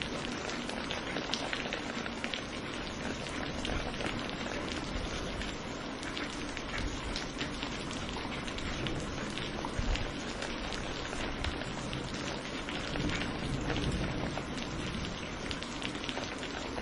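Steady rain falling, an even hiss with many distinct drop ticks throughout.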